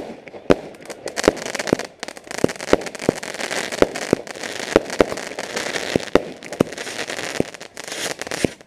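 Fireworks going off: a run of a dozen or more sharp bangs at irregular spacing, over a dense crackling hiss that builds from about two seconds in and dies away near the end.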